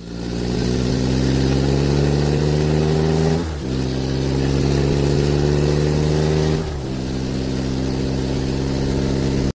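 An engine accelerating: its pitch climbs slowly, drops suddenly twice, about a third and two-thirds of the way through, then climbs again, and it cuts off abruptly at the end.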